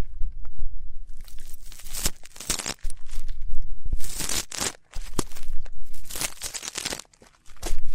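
Ear-cleaning ASMR: an ear pick scratching and rustling in the ear, in irregular scratchy strokes with brief pauses.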